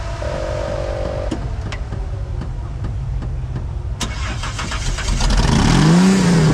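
Off-road competition 4x4's engine running, then revving hard from about four seconds in, its pitch rising and falling in repeated surges as the truck works against the rocks.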